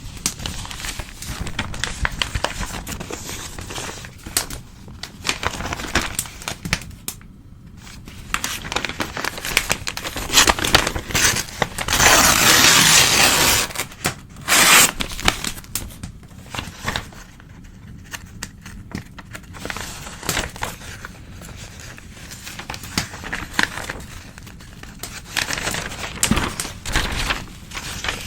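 Old newspaper being torn and crumpled by hand, a run of rustling and crackling rips. The longest and loudest tear comes near the middle and lasts about two seconds.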